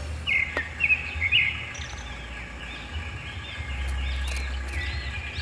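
Wild birds chirping, a run of short arching calls that are loudest in the first second and a half, over a low steady rumble.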